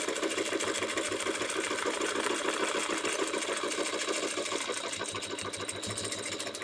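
Sewing machine stitching steadily at a fast, even rate while free-motion quilting, the needle going up and down in a rapid regular rhythm that eases off slightly near the end.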